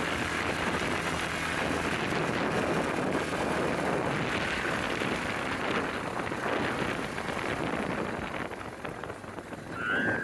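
Snowstorm wind gusting with a steady rush that swells and eases, buffeting the microphone. One short high squeak at the very end.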